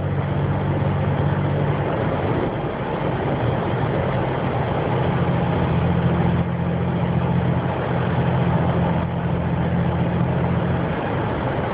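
Car cabin noise while driving: a steady low engine hum over road and tyre noise, the hum easing off about two seconds in and coming back stronger about five seconds in.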